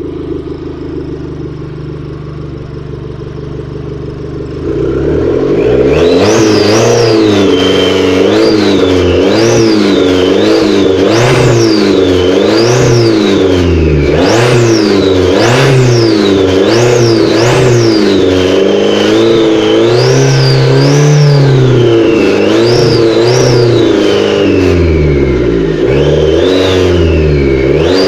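Mitsubishi 4G93T turbocharged 1.8-litre four-cylinder engine, partly disassembled, idling steadily, then from about five seconds in blipped repeatedly, about once a second. A high whine rises and falls with each rev.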